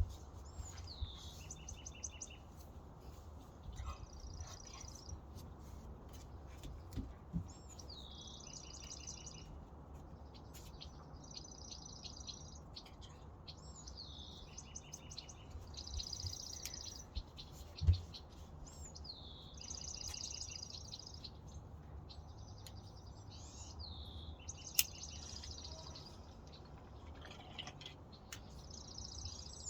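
Songbirds singing. One bird repeats a phrase every five seconds or so, a whistle sliding down in pitch followed by a short trill, while other birds chirp in between. A low steady rumble runs underneath, and there is a single short thump about two-thirds of the way in.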